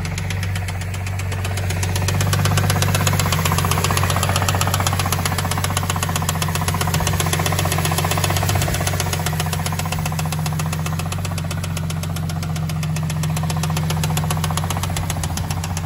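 Cadillac CTS 3.6-litre V6 engine idling with a rapid, even ticking over its steady hum, which the owner puts down to a valve lifter on the camshaft.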